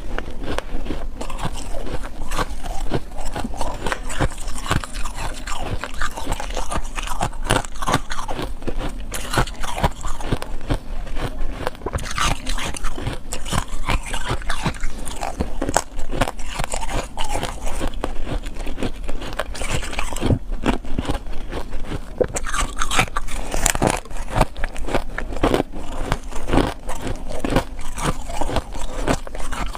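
A person biting and chewing ice close to the microphone, with dense, continuous crunching and cracking and no real pauses.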